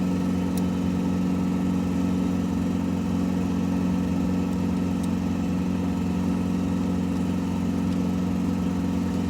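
A steady low hum from a running motor, even in pitch and level.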